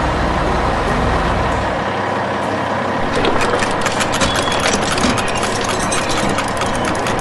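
Heavy excavator engine sound effect running steadily, with a deep rumble for the first two seconds. From about three seconds in, a flurry of rapid clicks and clanks comes in as grapple excavators handle steel beams.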